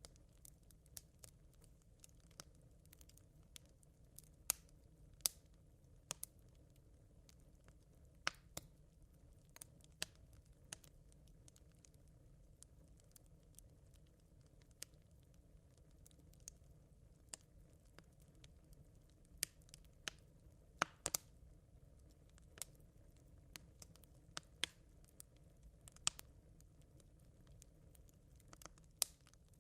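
Smouldering campfire embers crackling faintly: sparse, irregular sharp pops and ticks, a few every couple of seconds, over a steady low background hum.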